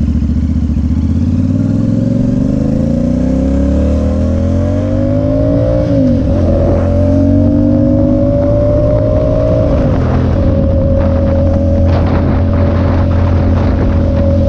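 Motorcycle engine accelerating through the gears: the pitch climbs, drops with an upshift about six seconds in, climbs again and drops with a second upshift near ten seconds, then holds steady at cruising speed.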